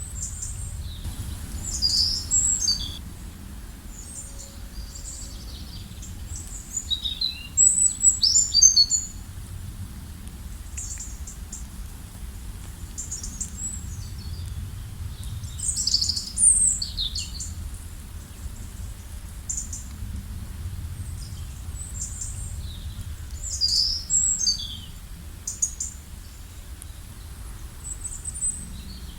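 Several small songbirds chirping and trilling in short high bursts every few seconds, over a steady low background rumble.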